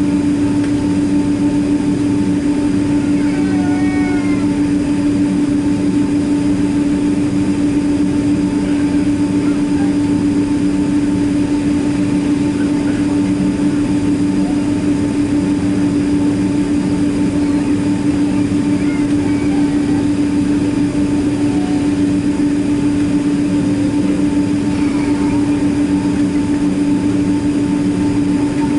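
Steady jet engine drone of a Boeing 767-300ER heard inside the cabin: a constant rushing noise with a steady low hum, unchanging throughout.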